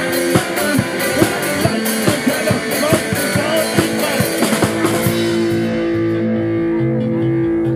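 Live rock band playing an instrumental passage on drum kit, guitar and bass. About five seconds in the drums stop, leaving long held guitar and bass notes.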